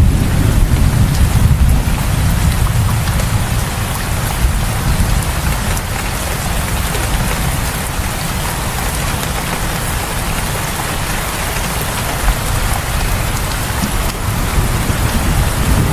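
Heavy rain falling in front of a house: a steady, dense hiss of rain on surfaces over a low rumble that is strongest in the first couple of seconds.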